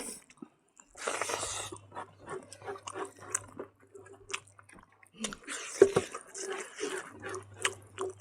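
A person chewing and biting food: irregular soft, wet clicks and smacks. Under it runs a low steady hum that drops out for a couple of seconds midway.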